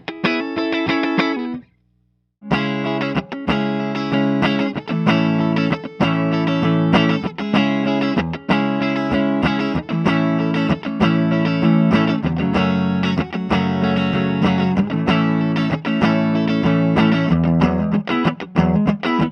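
Electric guitar played on a clean tube-amp tone, chords and single notes ringing out through a miked speaker cabinet. The playing stops dead just under two seconds in and starts again about half a second later.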